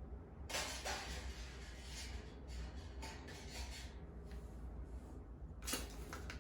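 Objects being handled, with a few clinks and rustles: one about half a second in and another near the end, over a low steady hum.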